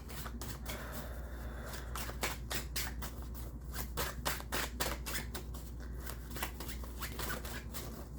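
A deck of tarot cards being shuffled by hand: a rapid, continuous run of crisp card clicks and flicks.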